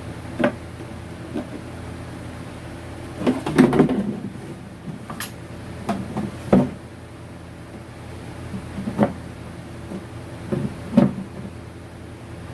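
Scattered knocks and clicks of hard objects being handled, with a short run of clatter about three and a half seconds in, over a steady low hum.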